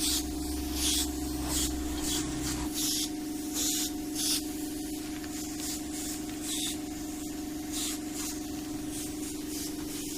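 Primer paint being sprayed onto car bodywork in short hissing passes, one every half second to a second or so, over a steady hum. A deeper rumble underneath stops a little under three seconds in.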